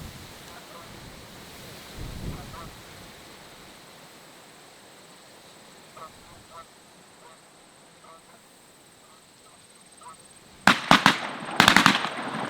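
Geese honking on and off, then near the end a quick volley of about six shotgun blasts in two tight groups.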